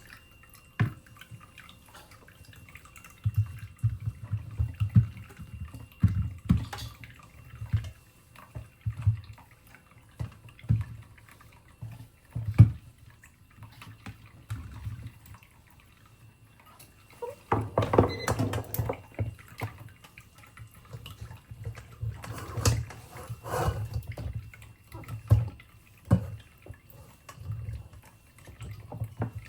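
Kitchen sink work: a run of short knocks and bumps of things being handled, with two louder spells of splashing water about halfway through and again a few seconds later.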